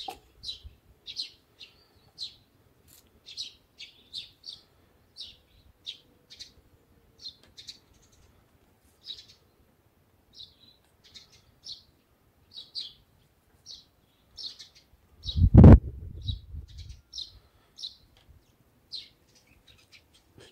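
A small bird chirping over and over, short high chirps about twice a second. Past the middle, one loud thump with a short low rumble after it stands out as the loudest sound.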